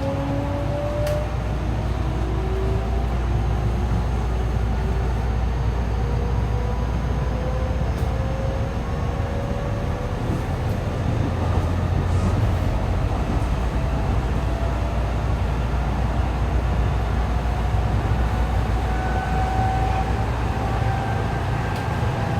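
JR West 207 series electric train running, with steady wheel and rail rumble. The traction inverter whine rises in pitch with acceleration as two slightly offset tones, because the two inverters on the motor car are out of step, which gives the odd sound this car is known for. The whine fades in the first few seconds, and a new rising whine comes in near the end.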